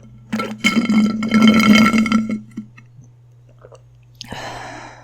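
A long, loud burp of about two seconds, held on one pitch, followed near the end by a short breathy noise.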